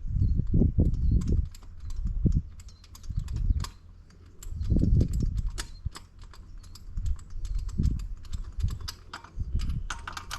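Irregular sharp clicks and light metallic knocks from hand tools and parts being handled at a small engine, with dull low thuds and rustling in between.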